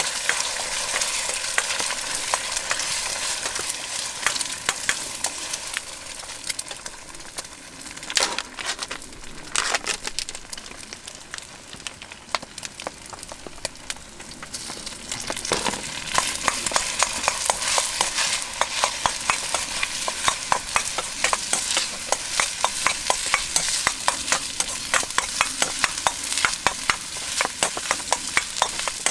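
Fried rice sizzling in a Chinese wok over a campfire, with a spatula scraping and knocking against the wok. The strokes are sparse at first and come several a second from about halfway through.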